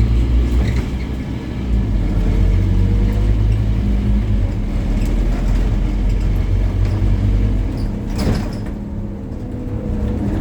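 Scania N270UD OmniCity double-decker bus's five-cylinder diesel engine running under way at a steady note, easing briefly about one and a half seconds in. A short sharp noise cuts across it about eight seconds in.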